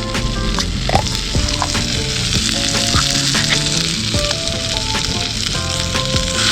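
Food sizzling as it fries over a campfire, with scattered small pops, under background music playing a simple stepped melody.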